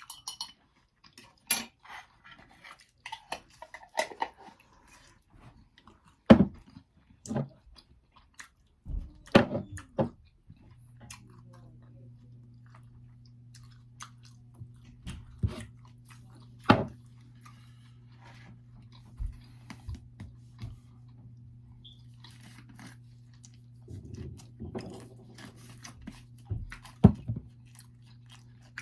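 Close-up chewing and crunching of pizza, with scattered irregular clicks and a few louder knocks. About ten seconds in, a steady low hum sets in underneath.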